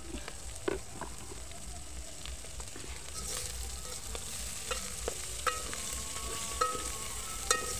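Omena (small fish) and onions frying and sizzling in a metal pot while a metal spoon stirs them, clinking and scraping against the pot several times, some knocks leaving a short metallic ring.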